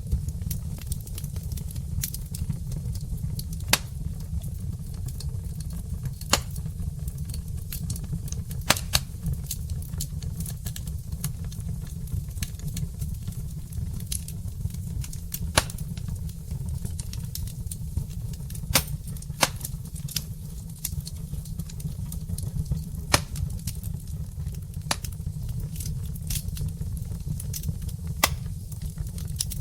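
Wood fire burning in a fireplace: logs crackling and popping in irregular sharp snaps, a few louder than the rest, over a steady low rumble.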